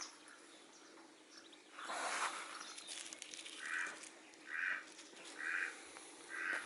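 A bird calling four times, about once a second, in the second half, after a fainter call around two seconds in.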